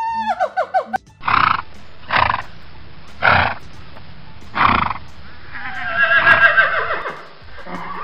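Horses: four short breathy blasts about a second apart, then a neigh with a wavering, falling pitch about six seconds in, and another whinny starting near the end.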